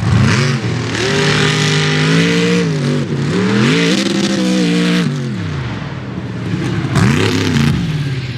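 Mega mud truck engine revving hard and unevenly, its pitch climbing, holding and dropping several times. A rushing hiss rides over it during the hardest pulls, about a second in and again around four and seven seconds.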